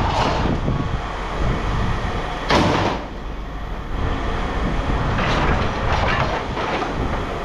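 Scrap aluminium extrusion pieces clattering and clanking as they are handled and tossed onto piles and into bins, several times, the loudest about two and a half seconds in, over a steady low rumble.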